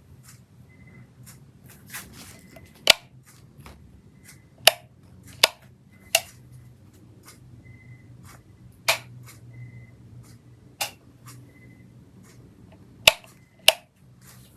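Sharp clicks and knocks of small hard objects being handled, about eight loud ones at irregular intervals with lighter ticks between, over a low steady hum. A short faint high beep recurs every second or two.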